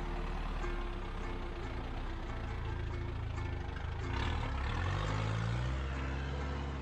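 Box truck engine running, its pitch rising about two-thirds of the way through as it picks up revs, with background music underneath.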